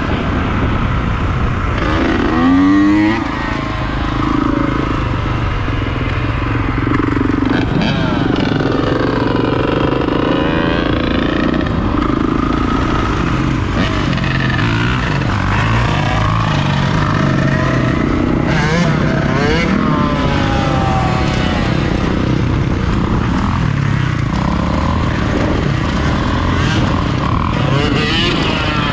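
Motorcycle engines revving, their pitch rising and falling over and over, with a loud rev about two to three seconds in.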